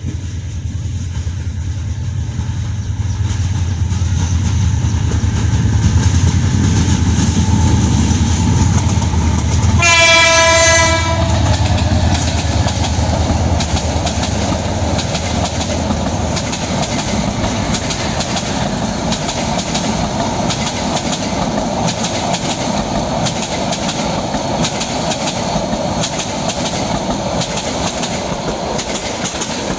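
A Bangladesh Railway diesel-hauled intercity passenger train passes. The locomotive's low engine rumble builds, and its horn sounds once for about a second about ten seconds in. Then the coaches roll by with a steady clickety-clack of wheels over rail joints.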